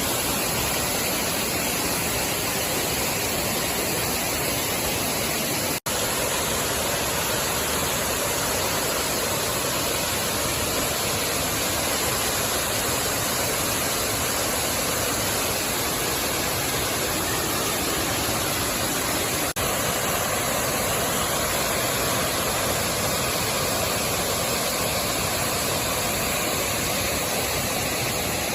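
Waterfall's rushing water, a steady even noise across low and high pitches, with a momentary dropout about six seconds in.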